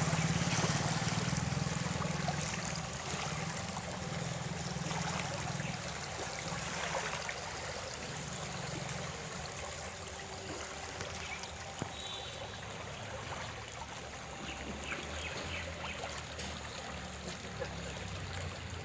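Floodwater flowing and rushing steadily, with a low hum that fades away over the first half.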